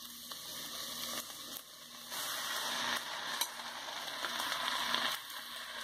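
Diced onion sizzling in hot oil in a pot. About two seconds in the sizzle grows louder as diced tomatoes are tipped in on top, then eases off near the end.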